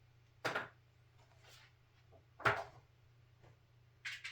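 Three sharp knocks and clatters of small containers or drawers being handled while searching for parts, the middle one the loudest, over a steady low hum.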